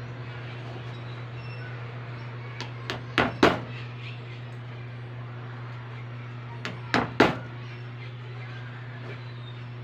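Sharp clicks or snaps in two quick clusters, about three seconds in and again about seven seconds in, over a steady low hum.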